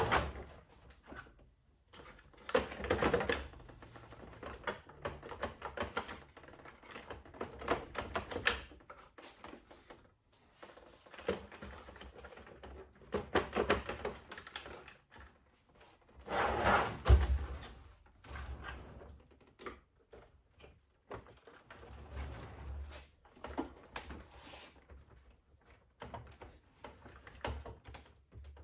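Irregular clicks, taps and knocks of hand tools and plastic parts being handled while a DeLonghi Perfecta ESAM 5600 coffee machine is taken apart. The clicks come in uneven clusters, with louder handling noises about 3, 8, 14 and 17 seconds in.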